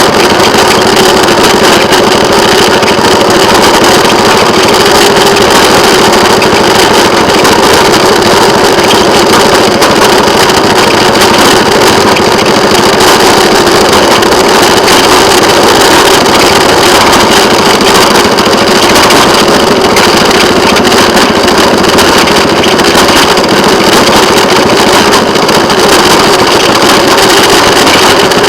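Railway motorcar's small engine running steadily while the car travels along the track, loud and even.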